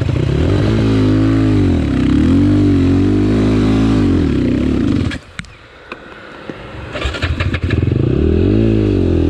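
Enduro motorcycle engine revving hard, its pitch swinging up and down over and over. A little after five seconds in the revs drop away sharply, and near seven seconds they climb again.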